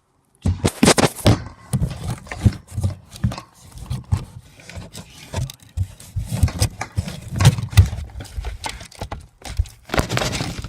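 A vacuum cleaner pole repeatedly striking and scraping a cardboard box: an irregular run of knocks and scrapes, with a heavy noisy scraping burst about a second in and another near the end.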